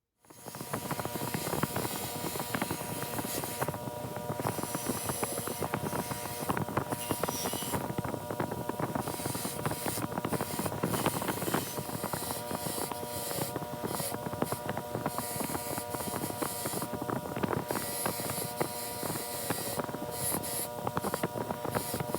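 A motor-driven wire wheel running with a steady whine while the metal hand-plane parts are held against it, giving a constant scratchy brushing. The sound cuts in suddenly just after the start.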